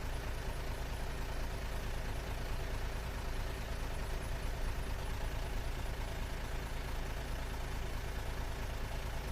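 A heavy diesel engine running steadily: an even, low rumble with no change in pace.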